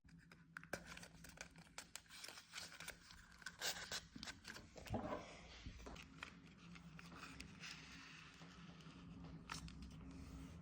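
Small magnetic balls clicking and rattling against each other and the track as they run through a handmade ball machine. Irregular sharp clicks come thick in the first half, and from about halfway a faint steady hum joins in under fewer clicks.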